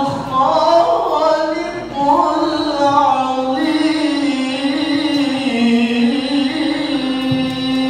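A Quran reciter's solo voice in tilawah style, drawing out the closing phrase of the recitation in long, ornamented melodic runs. It settles onto a long held note near the end.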